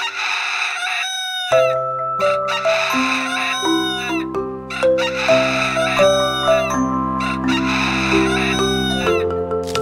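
Swamphen calling in a series of loud, harsh calls, about four bouts of roughly a second each, over background music of sustained notes that comes in about a second and a half in.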